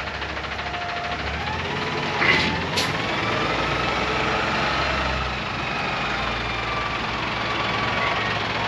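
Kenworth T680 tractor's Cummins natural-gas engine running, a steady low hum with a faint whine rising slowly in pitch, and two short sharp sounds about two and three seconds in.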